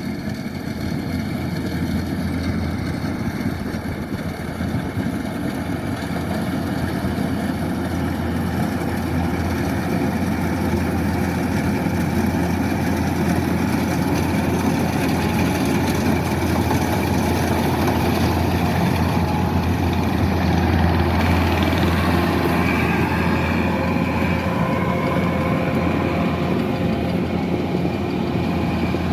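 Kubota DC-108X rice combine harvester's diesel engine running steadily with a low, continuous drone, growing slightly louder partway through.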